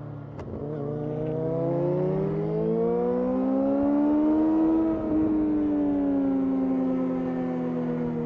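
Yamaha R6 inline-four sport-bike engine accelerating hard, its pitch climbing steadily for about four seconds after a sharp click. There is a brief break near the top, then the revs ease off slowly.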